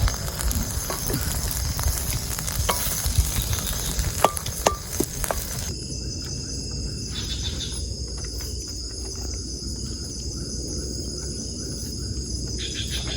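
Campfire cooking sizzling and hissing, with several sharp metal clinks of utensils, cutting off suddenly about six seconds in. Steady high chirring of forest insects continues underneath.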